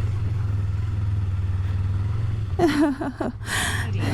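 Motorcycle engine running steadily at low revs, a low even hum. About two and a half seconds in, a short wavering voice sound and a brief hiss come over it.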